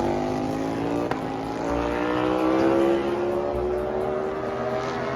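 Racing motorcycle engine accelerating, its pitch rising steadily for a few seconds and then holding near the top.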